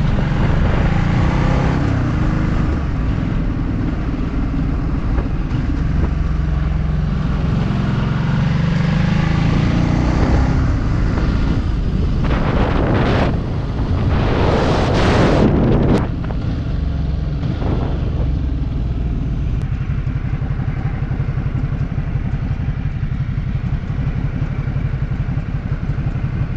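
Motorcycle engine running under way with heavy wind noise on the microphone. About halfway through, a louder rushing swell builds for a few seconds and cuts off suddenly.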